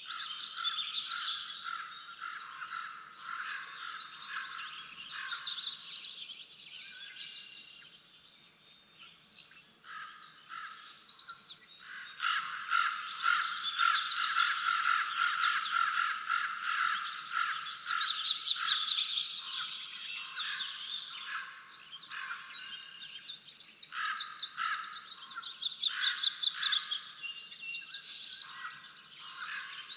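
Several small birds singing and twittering over one another in rapid trilled phrases, loudest in bursts of a few seconds, with a lower rapid trill running beneath much of it.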